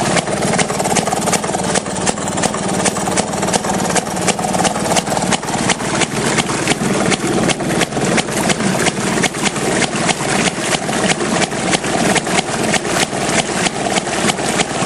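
Maytag Model 31 single-cylinder two-stroke gas engine running steadily, with a sharp exhaust pop at each firing, several a second. It is driving the wringer washer's agitator in gear.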